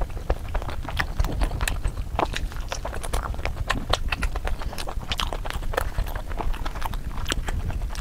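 Close-miked ASMR eating sounds: chewing and lip smacking through a mouthful of naan with chicken curry, a steady run of sharp mouth clicks several times a second.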